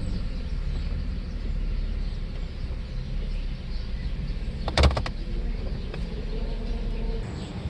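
Mercedes S600 W140's 6.0-litre V12 running at low speed while the car is parked, a steady low rumble. A quick cluster of sharp clicks comes about five seconds in, and the rumble drops away near the end.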